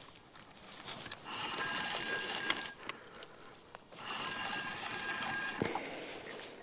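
Spinning reel being cranked to wind in a hooked lake trout: two bursts of whirring with fine rapid clicking, about a second in and again about four seconds in.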